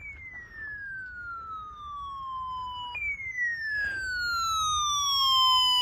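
Electronic weather alert tone announcing a tornado warning: a siren-like tone that glides down in pitch over about three seconds, then jumps back up and repeats, getting louder as it goes.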